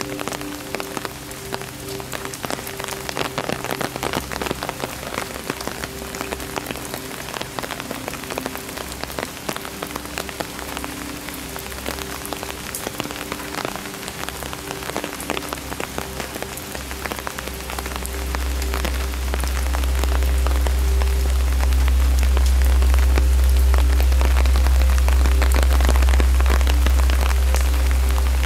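Steady rain falling, with many separate drops ticking. About two-thirds of the way in, a loud low rumble rises underneath and stays, and a faint steady hum of a few low tones runs beneath.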